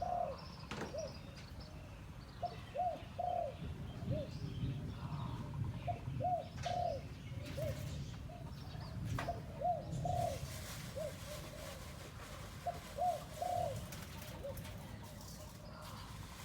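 One-year-old decoy dove cooing: short phrases of three or four coos, repeated about every three seconds, with a few faint clicks between them.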